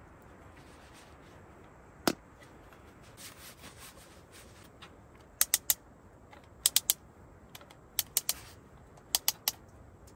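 Sharp clicks or taps: a single one about two seconds in, then four quick runs of three, over a faint steady hiss.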